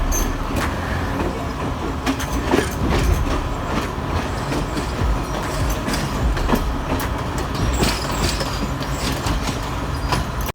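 Train running on the rails: a continuous rumble with many sharp wheel clicks and clatter.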